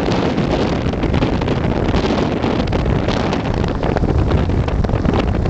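Wind rushing over the microphone of a moving land yacht, with a constant clatter of many small knocks from the craft rolling over rough ground.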